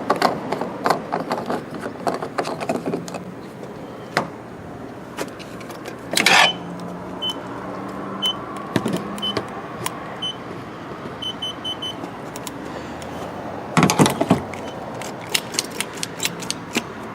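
Clicking and rattling handling noises with two louder clattering bursts, about six and fourteen seconds in, and a string of short, high electronic beeps in between, over a low steady hum.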